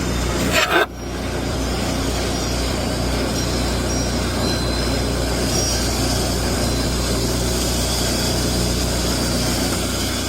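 Cryogenic tanker's transfer pump running during unloading, with the truck's engine driving it: a steady mechanical drone with a low hum. A brief louder noise comes under a second in, after which the drone briefly drops and builds back up.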